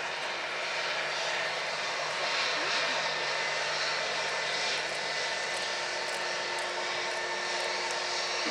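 Airliner engines running, a steady rushing noise with a few faint steady tones in it.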